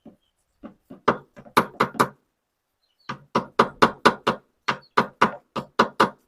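Hammer tapping a new press-fit bearing into its seat in a washing machine, driving it home so that it sits firm. Sharp knocks: a quick cluster, a short pause about two seconds in, then a steady run of about a dozen blows, three or four a second.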